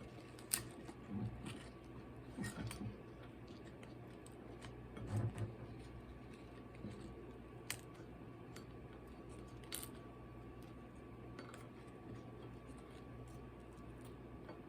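Faint eating and handling sounds: a few sharp clicks and soft low bumps over a steady low hum.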